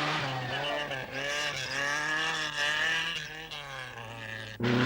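Rally car engine revving hard, its pitch rising and falling over and over. About four and a half seconds in, the sound changes abruptly to a lower, steadier engine note.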